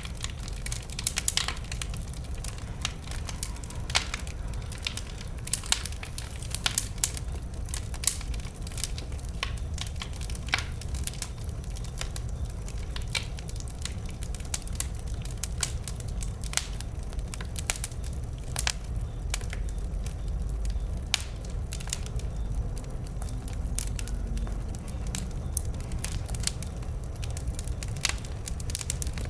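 Wood bonfire crackling, with frequent irregular sharp pops and snaps from the burning logs over a steady low rumble.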